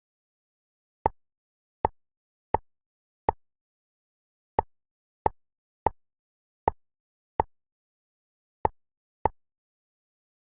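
Jigsaw puzzle game's pop sound effect: eleven short, identical pops at an uneven pace, one as each piece snaps into place.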